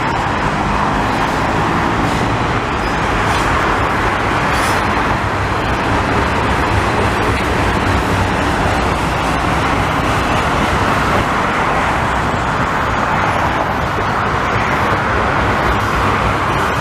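Freight train of autorack cars rolling past at close range: a steady, unbroken noise of wheels running on the rails.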